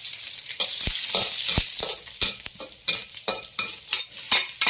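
Salted preserved greens with garlic and chili being stir-fried in a hot wok: oil sizzling under a metal spatula that scrapes and knocks against the pan. The sizzle is steady for about two seconds, then quick spatula strokes dominate over a fainter sizzle.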